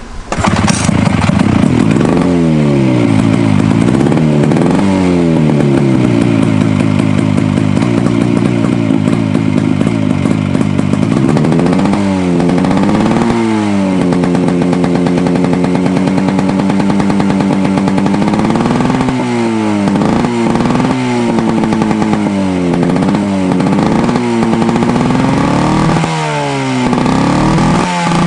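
High-compression two-stroke engine of a 1973 Rupp 440 snowmobile catching right at the start after a cold start on choke and a little gas, then running with the throttle blipped repeatedly so its pitch rises and falls, settling briefly between revs.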